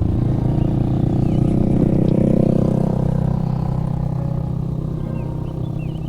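A motor vehicle's engine passing by, growing louder to a peak midway and then fading away. Short bird chirps come in near the end.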